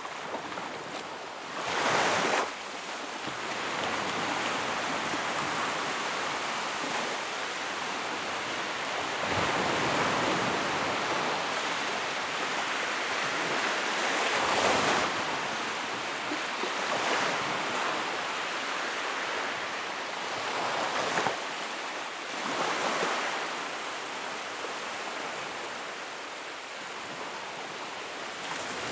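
Sea waves washing in, a continuous rushing noise that swells into louder surges every few seconds.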